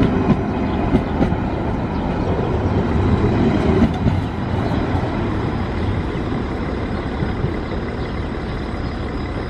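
A train at a station platform running, a steady rumble that swells slightly a few seconds in and then slowly eases.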